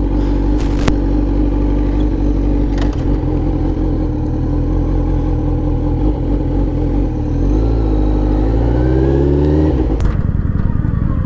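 Motorcycle engine running steadily with a low rumble of wind underneath; near the end it revs up, its pitch climbing for about two seconds before dropping off abruptly.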